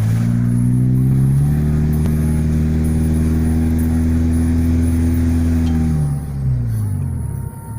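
Car engine running under load on the climbing road. The revs rise at the start, hold steady for several seconds, then fall away in the last couple of seconds before starting to climb again.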